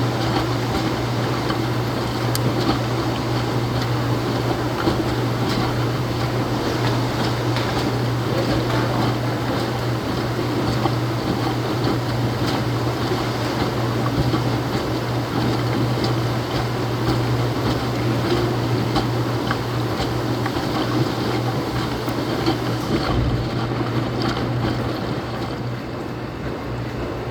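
Laundromat washing machine running: a steady low hum under a constant wash of noise, easing slightly near the end.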